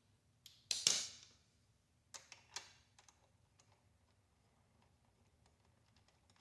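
Small hard clicks and knocks of motorcycle brake reservoir parts being handled as the reservoir is taken off its mount. There is a louder clatter about a second in, then three lighter clicks a little after two seconds.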